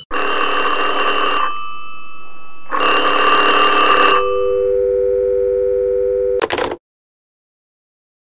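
Telephone ringing twice, each ring a trilling burst of about a second and a half, followed by a steady low two-note tone for about two seconds that ends in a short burst and cuts off abruptly.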